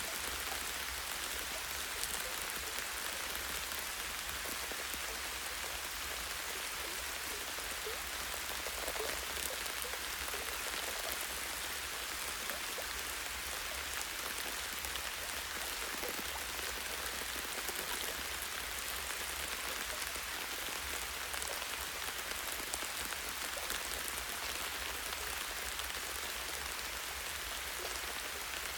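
Light, steady rain: many small drops pattering on leaves and a tree branch, an even hiss dotted with fine drop ticks.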